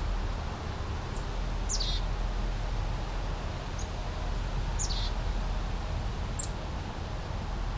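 Small brook babbling steadily, with a bird calling over it: a short, quickly falling chirp twice, about three seconds apart, and a few brief high single notes in between.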